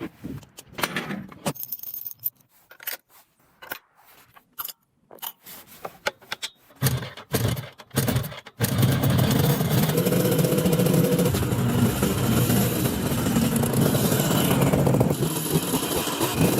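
Scattered clicks, knocks and scrapes for the first eight seconds or so. Then the restored 1960s Jawa motorcycle's engine comes in abruptly and runs steadily.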